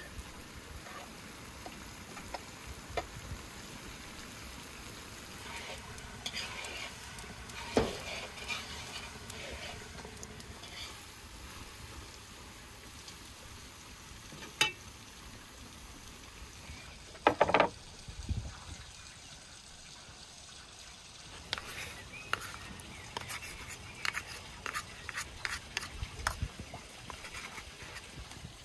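Carrots, chicken and mushrooms sizzling as they fry in a large pot, stirred with a metal spatula that scrapes and now and then knocks sharply on the pot. In the last few seconds, quick light clicks and scrapes of a wooden spoon in a wooden bowl.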